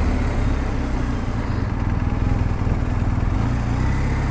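BMW R 1250 GS Adventure's boxer-twin engine running steadily at low revs.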